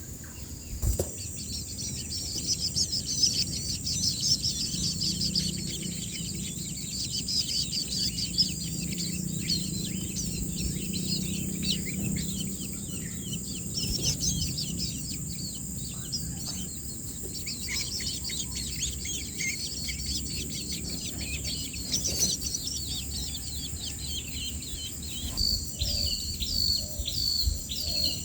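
Nestlings chirping rapidly and continuously, typical of begging calls, over a steady high insect drone. Near the end another bird gives a run of repeated down-slurred notes, about two a second.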